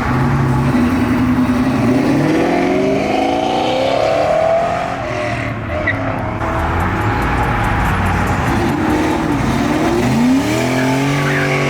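A car engine revving as the car accelerates away, its pitch climbing over a few seconds, then another car engine rising in pitch near the end.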